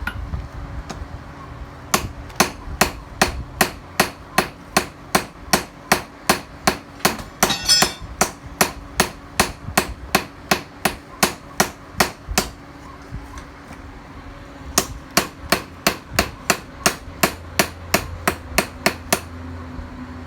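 Hand hammer striking steel in a steady rhythm of about three blows a second, working a knife blade forged from a tiller blade. The blows come in two runs with a pause of about two seconds between them.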